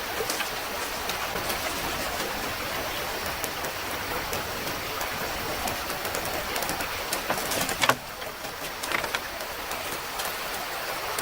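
Steady rushing of a stream, with a few sharp clicks and knocks over it, the loudest just under eight seconds in.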